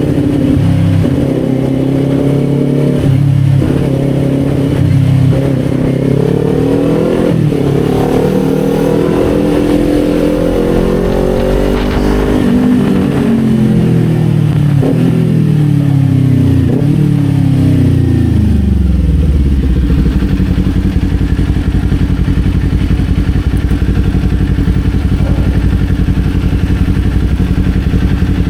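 Kawasaki Z400's parallel-twin engine, heard from on the bike, pulling through the gears with revs rising and stepping at each shift. It then slows, the revs falling through downshifts with short blips. About two-thirds of the way in it settles to a steady idle.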